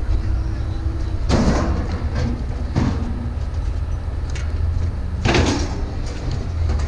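A steady low rumble with three short scraping, rattling noises of scrap being handled and untied, about a second, three seconds and five seconds in.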